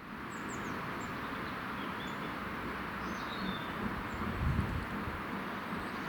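Outdoor ambience: a steady hiss of background noise with small birds chirping now and then, and a brief low rumble a little past halfway.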